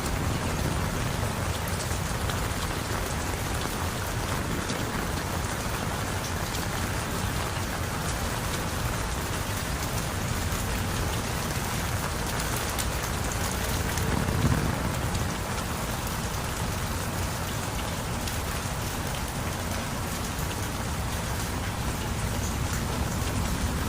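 Steady heavy rain falling and splashing on surfaces, with a brief low thump about halfway through.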